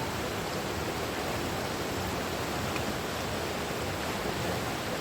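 Rushing water, a steady even wash of noise with no breaks.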